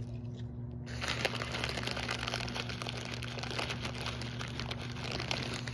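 Bicycle tyres rolling over a gritty or wet road surface, a dense crackling hiss that starts about a second in and stops near the end, over a steady low hum.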